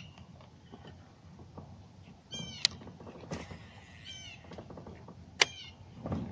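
A bird giving short, high calls in small groups, several times over, with two sharp clicks near the middle and about five and a half seconds in.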